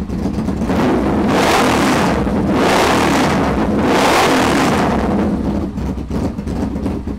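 Yamaha VMAX 1200's V4 engine through a loud aftermarket exhaust, idling and then blipped up three times in quick succession before dropping back to idle.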